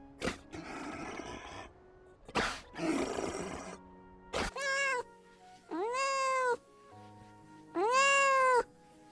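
A cat meowing three times in the second half, each meow rising and then falling in pitch. Before the meows there are a few noisy, rustling bursts and sharp knocks, with faint background music throughout.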